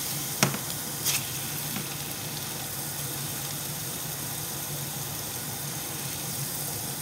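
Hamburger patties sizzling in a frying pan, a steady hiss, with a sharp click about half a second in and a lighter one about a second in.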